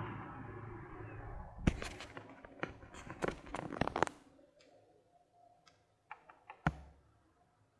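A robot vacuum running, fading out in the first second and a half, followed by a quick run of sharp plastic clicks and knocks, a few scattered clicks, and one heavier thump near the end.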